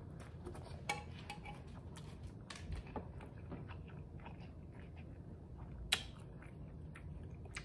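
Close-miked chewing of a mouthful of noodles: faint, irregular wet mouth clicks and smacks, with one sharper click about six seconds in.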